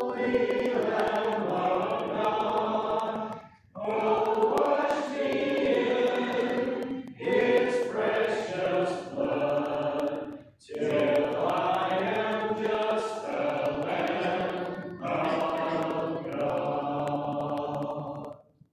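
Congregation singing a hymn together, a cappella, in long sustained phrases with brief pauses for breath between lines; the singing stops on a final held note near the end.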